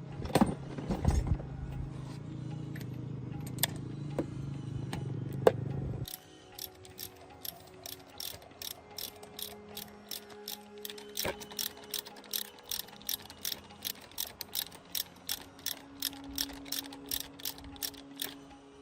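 A humming machine with a few sharp knocks that cuts off about six seconds in, then quick, even mechanical clicking, about three clicks a second, like a ratchet being worked.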